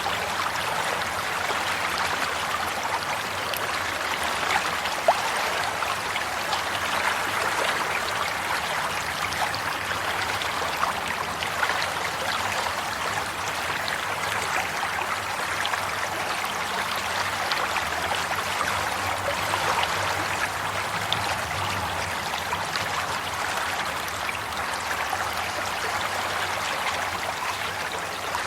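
Water running and trickling steadily over stones, like a small stream, with a dense, even babble of splashes and gurgles.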